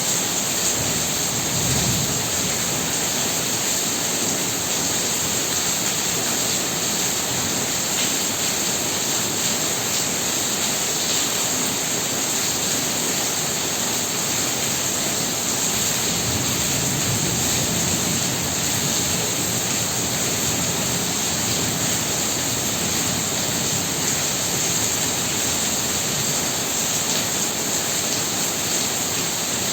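Heavy rain pouring down steadily in strong wind, an even rushing hiss with low swells from the gusts.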